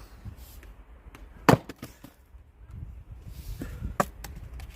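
An axe strikes a firewood log once with a loud, sharp crack about a second and a half in. A few lighter wooden knocks follow.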